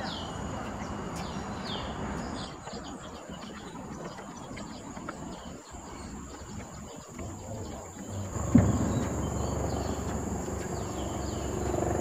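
Birds chirping over a steady high whine. About eight seconds in there is a sudden bump, then a low rumble.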